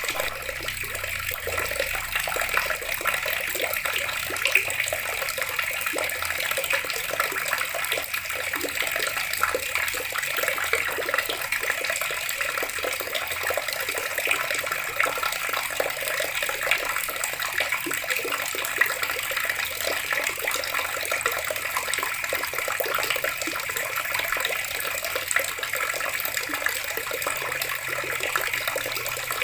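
Water running steadily from a tap and splashing, a continuous even splatter.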